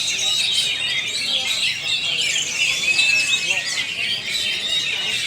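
Many oriental magpie-robins (kacer) singing at once, a dense chorus of overlapping chirps, whistles and trills.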